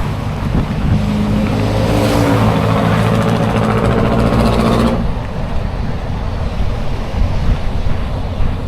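Street traffic heard from a moving bicycle: a motor vehicle's engine runs close by for about four seconds, rising slightly in pitch, then cuts off suddenly. Steady wind rumble on the action camera's microphone runs underneath.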